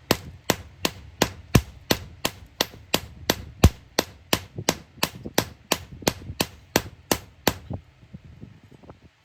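Hammer striking iron in steady forging blows, about three a second, with a short metallic ring after each; the hammering stops about eight seconds in.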